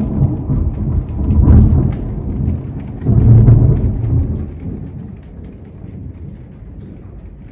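Thunder rumbling over steady rain: two loud rolls, about a second and a half in and again around three seconds in, then the rumble dies away and the rain carries on.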